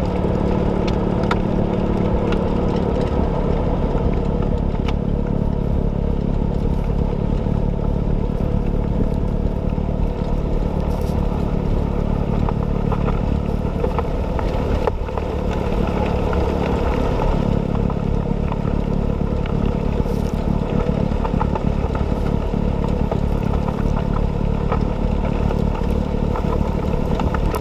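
John Deere 6110R tractor's diesel engine running steadily under load while its snowblower cuts through drifts, with scattered clicks and clatter over the engine.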